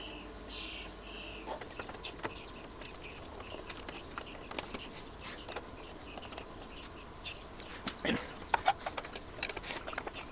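Light clicks and knocks of hand work on an amplifier chassis, getting busier and louder near the end. A few short high chirps sound in the first second and a half.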